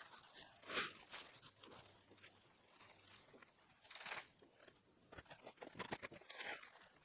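Scattered crunching and rustling noises, the loudest about a second in and another around four seconds in.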